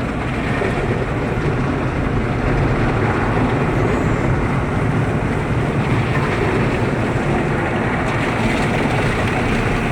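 Automatic car wash brushes and water spray working over the car, heard from inside the cabin as a steady, muffled rumble and hiss.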